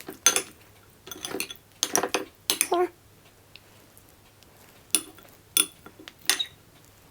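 Cutlery clinking and scraping against dishes as food is served: a run of scrapes and taps in the first three seconds, then three single sharp clinks that ring briefly.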